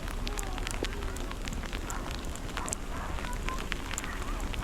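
Outdoor snowstorm ambience: a steady rushing noise sprinkled with many small, irregular crackles and ticks, with faint distant voices.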